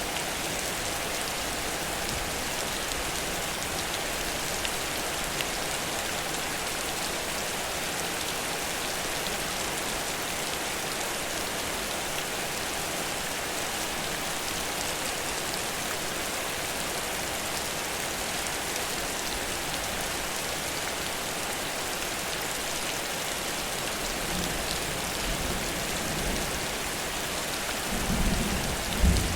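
Heavy rain falling steadily, an even hiss of downpour. Low rumbling swells in near the end, with one sharper low thump just before it finishes.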